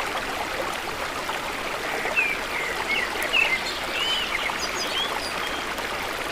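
A stream flowing steadily, with birds giving short chirps over it from about two seconds in.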